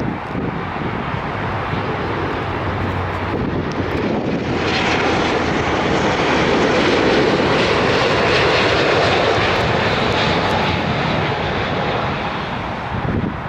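Jet airliner on landing approach passing close by: its engine roar swells about four seconds in, is loudest in the middle and then fades, over wind rumbling on the microphone.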